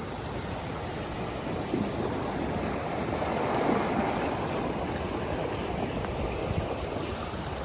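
Floodwater rushing through a swollen creek: a steady rush of water that grows a little louder midway.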